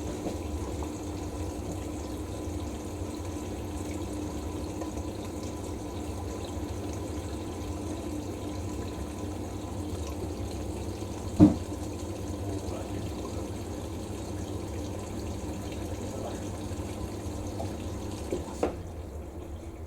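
Hoover SIX Inter@ct washing machine filling with water at the start of its wash cycle: a steady rush of water with a hum. A single sharp click comes about halfway through, and a couple of light knocks come near the end.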